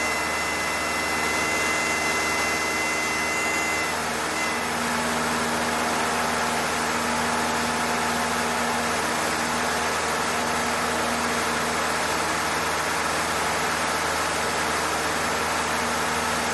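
Cessna 152's four-cylinder Lycoming O-235 engine and propeller droning steadily in flight, heard inside the cabin. A steady high tone sounds over it for the first four seconds and then stops.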